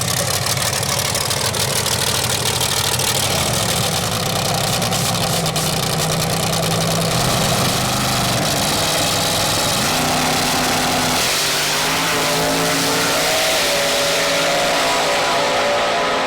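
Loud drag-racing V8 engine running hard, its pitch climbing in steps over the last few seconds.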